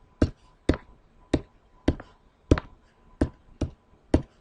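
About nine sharp taps, irregularly spaced at roughly two a second: calculator keys being pressed to work out an inverse tangent.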